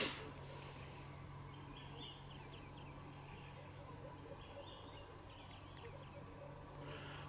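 Quiet outdoor ambience with faint distant bird calls: short high phrases about two seconds and five seconds in, over a low steady hum.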